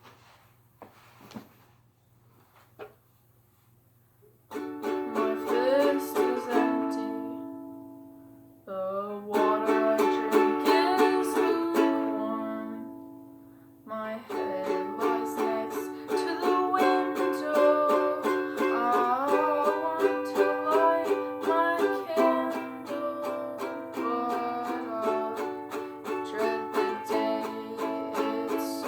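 A few faint clicks, then a plucked string instrument starts about four seconds in: two chords strummed and left to ring out and fade, then steady picked playing from about fourteen seconds on.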